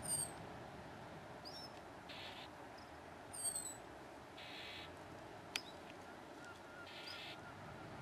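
Faint small-bird calls: a few thin, high notes that slide downward, and a short dry buzz that repeats about every two and a half seconds. A single sharp tick comes just past the middle.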